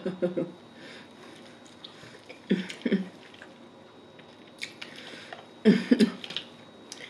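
Close-miked chewing and mouth sounds of a person eating crab leg meat, in three short bouts: at the start, about two and a half seconds in, and about six seconds in.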